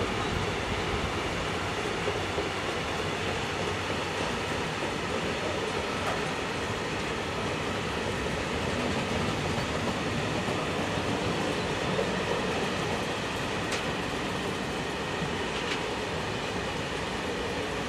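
Long freight train of grain hopper wagons rolling steadily past, the wheels running on the rails in an even, continuous noise. Two brief sharp clicks come in the last few seconds.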